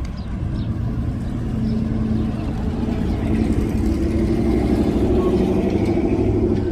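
Freight train's diesel locomotive engines running with a steady low rumble and hum, growing louder over the first few seconds.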